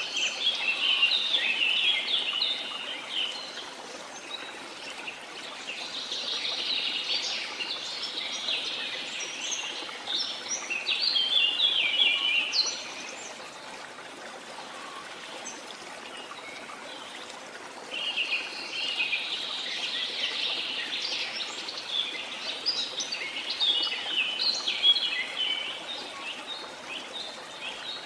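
Many birds chirping and twittering in overlapping bouts over a steady rush of flowing water, the birds easing off for a few seconds near the middle.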